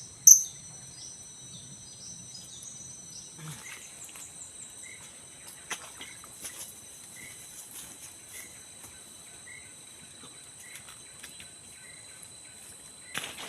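High, shrill calls of blue-crowned hanging parrots (serindit), one loud sharp call just after the start, over a steady high-pitched insect drone; from about four seconds in a short chirp repeats about once a second.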